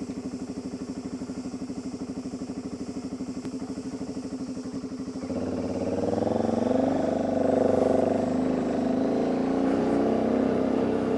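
Motorcycle engine running with an even, low pulse, then getting louder and revving up about five seconds in as the bike pulls away and gathers speed.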